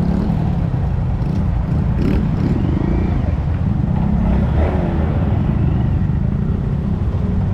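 Honda Monkey 125 motorcycle engines running with a loud, steady low rumble.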